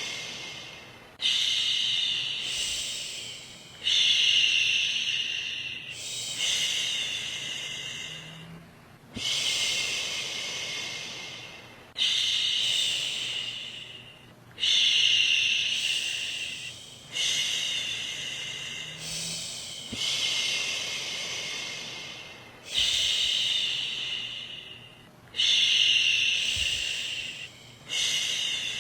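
A woman's voice shushing, long "shhh" sounds, repeated about every two and a half seconds. Each one starts sharply and fades away, as a soothing shush to settle a baby to sleep.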